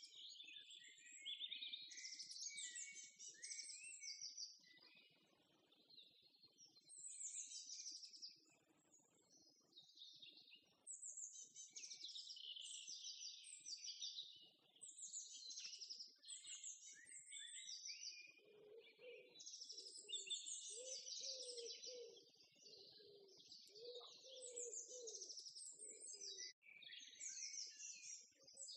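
Faint birdsong: many short, high phrases following one another, with softer low sounds here and there in the second half.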